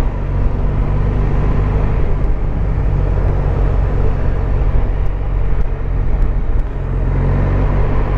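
Honda Silver Wing 600 maxi-scooter's parallel-twin engine running steadily while riding, under continuous wind and road noise.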